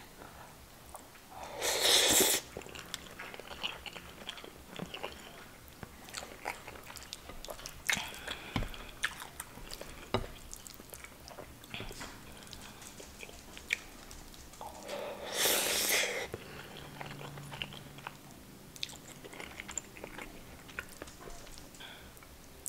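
Close-miked eating sounds: a mouthful of curry-soaked rice being chewed, with soft wet mouth clicks throughout and two louder, second-long mouth noises, about two seconds in and again about fifteen seconds in.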